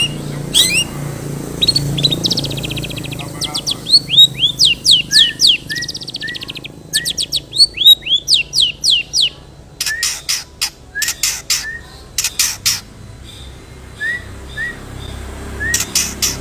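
Long-tailed shrike singing a varied mimicry song: rapid sharp down-slurred whistles and buzzy trills, then a run of harsh clicking notes about two-thirds of the way through, with short upslurred chips between.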